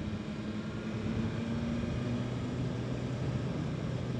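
BMW S1000RR inline-four engine running under way, with steady wind and road rush. Its note drops to a lower pitch about halfway through.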